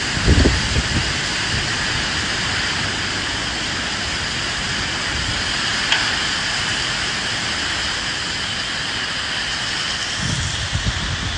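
Steady rain falling, with low gusts of wind swelling briefly just after the start and again near the end. A single faint click about halfway through.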